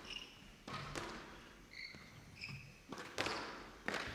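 Squash rally: the ball is struck by rackets and smacks off the court walls, four sharp hits with echo, and short high squeaks from players' shoes on the court floor between them.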